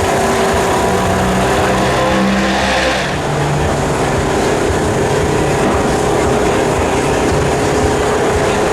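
Race car engines running at a circuit at a steady, loud level, several engine notes overlapping; about three seconds in the notes shift and a hissing component drops away.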